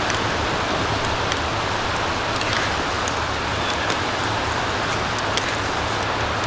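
Wood fire burning in a fire pit stand: a steady hiss with scattered sharp crackles and pops.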